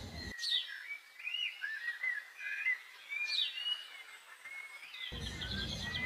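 Small birds chirping and whistling, many short notes gliding up and down. A low background rumble drops out just after the start and comes back near the end.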